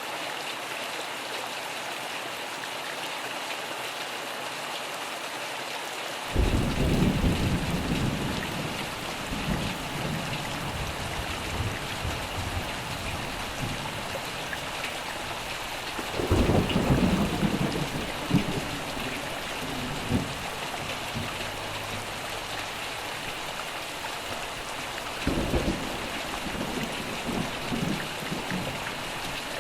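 Steady rain falling, with rolling thunder three times: a deep rumble that breaks in suddenly and trails off over several seconds, about six seconds in, again around the middle, and again near the end.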